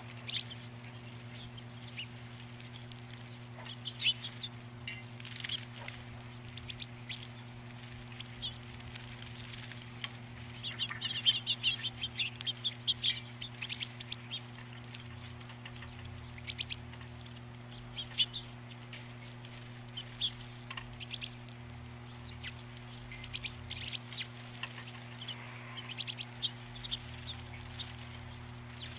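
Small birds chirping in short calls scattered throughout, busiest about a third of the way in, over a steady electrical hum.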